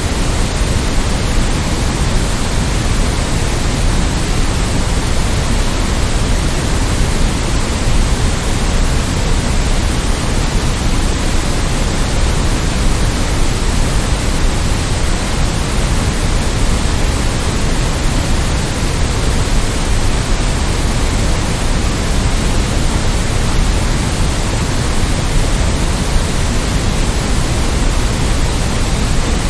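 Steady synthetic white noise: an even, unchanging hiss with a heavier low rumble underneath.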